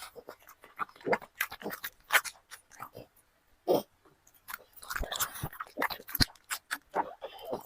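A dog chewing and crunching food with its mouth, in irregular, uneven crunches, a few of them sharp and loud.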